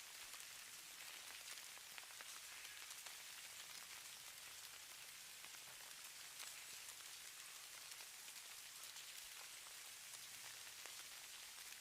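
Falling-snow ambience: a faint, steady hiss sprinkled with tiny soft ticks, like fine snow or ice grains landing.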